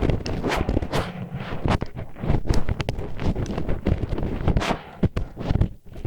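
Disposable wooden chopsticks scraping and rubbing against the ear of an ASMR ear microphone, heard as dense scratchy grinding strokes and clicks over a low rumble. There is a brief lull about five seconds in.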